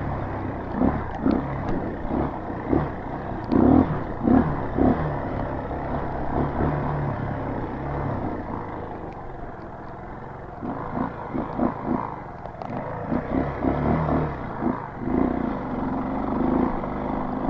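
Street-legal trail motorcycle's engine rising and falling in revs as it is ridden over rough, bumpy ground, with scattered thumps. The engine drops to a quieter, lower-revving stretch about halfway through.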